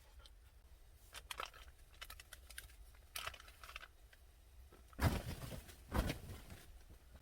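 Small clicks and crinkling of things being handled, then two louder knocks about five and six seconds in.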